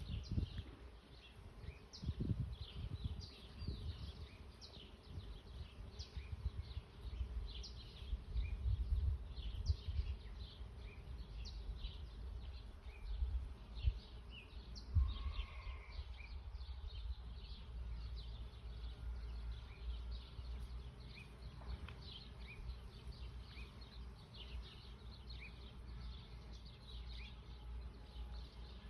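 Small birds chirping, a steady run of short, high chirps repeating throughout, over an uneven low rumble.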